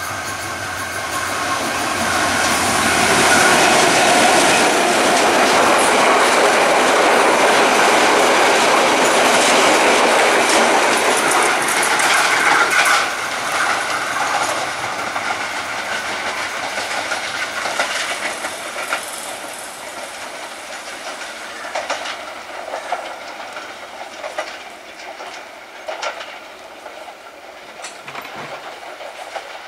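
Diesel-hauled passenger train passing close, a loud rushing of engine and wheels on rails that drops off suddenly about a third of the way in. Then a quieter train runs along the track, with scattered wheel clicks over the rail joints.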